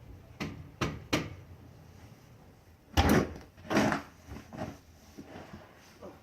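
Snow being cleared at a doorway: three sharp knocks in the first second or so, then several louder scrapes and thumps, the loudest about three seconds in.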